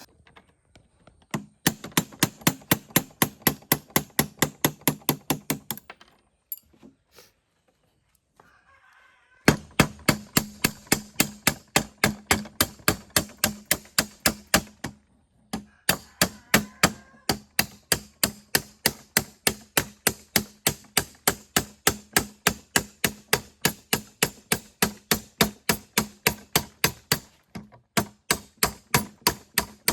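Rapid, evenly paced hammer blows, about four a second, each with a short ring. They come in runs, stopping for a few seconds around the sixth second and again briefly twice later.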